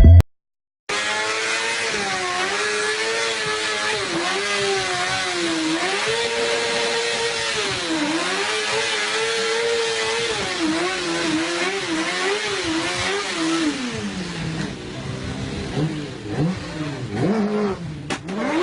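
Motorcycle engine running at high revs, its pitch repeatedly rising and falling with the throttle. A little past halfway through it fades and drops in pitch. Near the end it gives way to a few short rising and falling revs.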